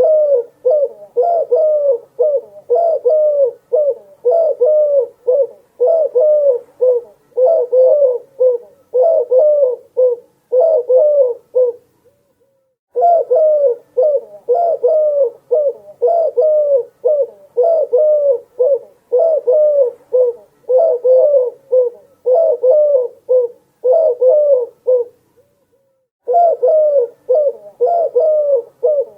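Dove cooing over and over in quick, bending coos, roughly one to two a second. The runs break off briefly twice.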